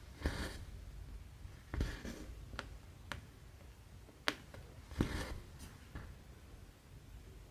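Cross stitch being worked by hand: several sharp ticks of the needle and hoop against the stamped fabric, and a few brief hissing pulls as the thread is drawn through.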